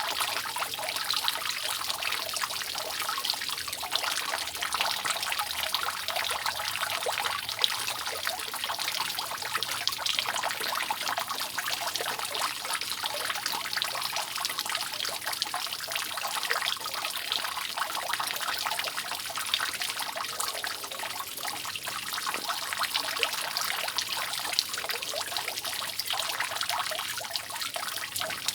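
Rainwater dripping and trickling from a roof, a steady dense patter of many small drops without pause.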